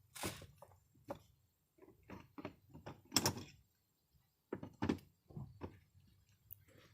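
Driver's door of a 2006 Buick Rendezvous being handled: a string of separate clicks and knocks from the door and its handle, the loudest about three seconds in and another pair near five seconds.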